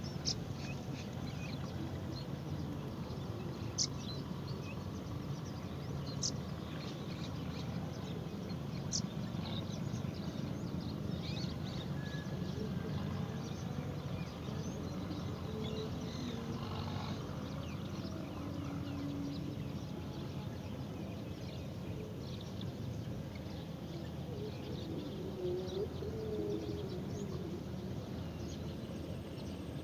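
Outdoor ambience: a steady low background noise with scattered short chirps and ticks.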